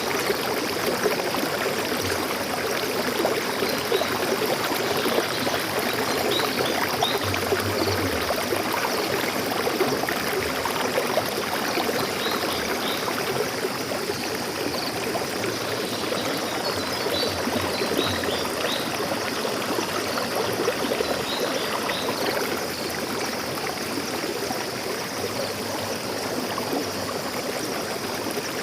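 Stream of water flowing steadily with a dense, even rushing and gurgling. Short, faint bird chirps come through now and then.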